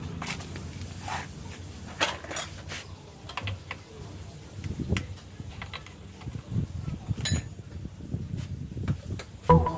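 Irregular metallic clicks, clinks and knocks of hand tools being handled during scooter repair work, over a low rumble. Music with steady notes comes in just before the end.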